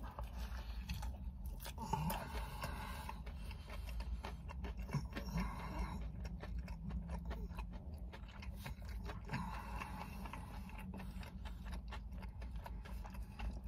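A person chewing a mouthful of crispy coated chicken wrap with the mouth closed: faint, irregular crunches and wet mouth clicks, over a low steady rumble.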